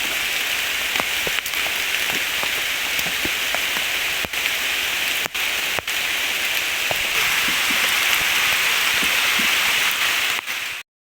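Steady heavy rain falling, with many small scattered drips and ticks through it; it cuts off abruptly near the end.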